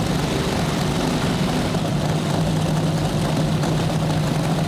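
Nitromethane-burning top fuel dragster engines idling steadily, holding an even low drone.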